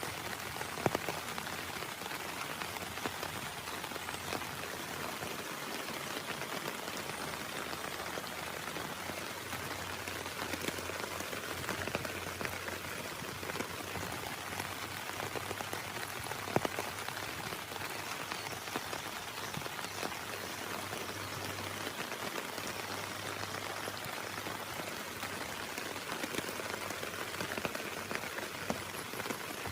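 Heavy rain falling steadily, with a dense patter of drops and the odd sharper drop strike standing out, one about a second in and another about halfway through.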